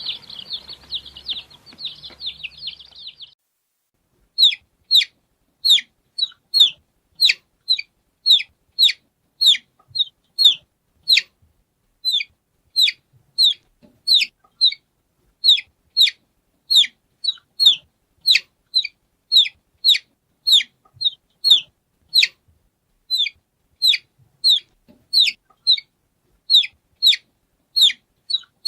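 Baby chicks peeping. For about the first three seconds many chicks chirp at once in a dense chorus. After a short break, single loud peeps follow, each a short call that falls in pitch, about one and a half to two a second.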